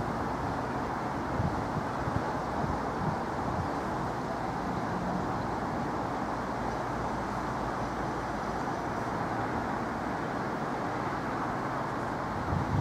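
A CrossCountry Voyager diesel multiple unit approaching slowly, a steady mechanical noise that holds an even level throughout, with wind gusting on the microphone in low thumps.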